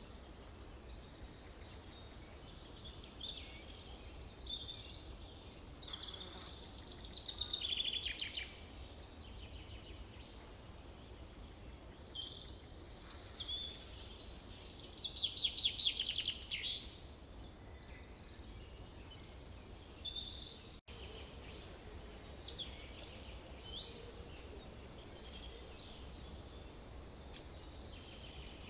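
Forest birdsong: several birds chirping and calling over a faint steady background hiss, with two louder rapid trilling songs, one about a quarter of the way in and one about halfway. The sound drops out for an instant about two-thirds of the way through.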